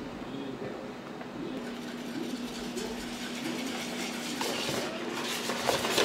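A steady low machine hum, with light clicks and clatter growing toward the end.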